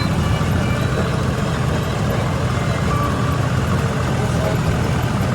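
Combine harvester's diesel engine running steadily, heard from inside the cab as a constant low hum.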